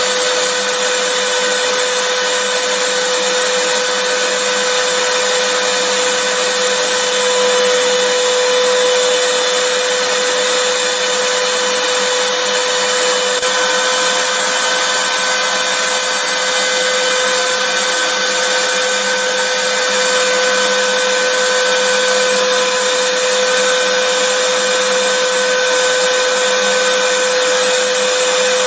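Vacuum cleaner running steadily, a constant hiss with a steady whine over it.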